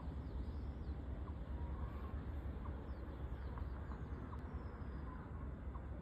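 Birds chirping faintly in a series of short, quick calls over a steady low rumble.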